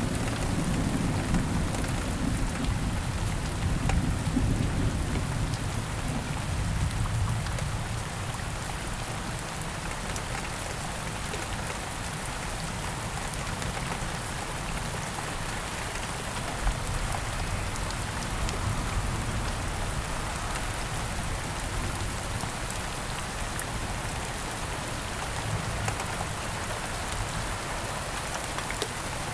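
Heavy rain falling steadily, with a low rumble of thunder in the first several seconds that fades away.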